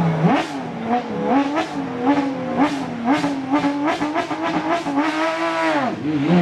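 Porsche flat-six rally car engine revving in short repeated throttle bursts, about two a second, with sharp cracks from the exhaust. Near the end the revs hold, drop suddenly, then start climbing again.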